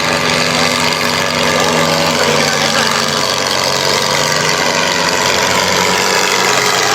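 Tractor's diesel engine running steadily, its note stepping slightly lower about two seconds in.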